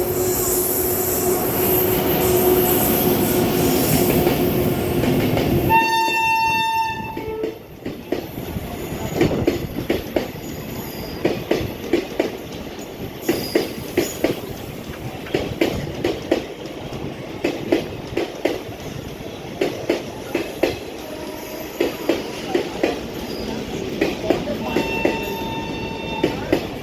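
An Indian Railways train passing close: loud running noise with a steady hum, then a short horn blast about six seconds in. After the horn comes the rhythmic clickety-clack of coach wheels knocking over rail joints in repeating pairs, with a fainter horn near the end.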